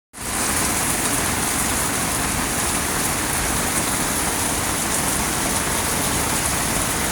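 Steady soaking rain falling, a constant even hiss.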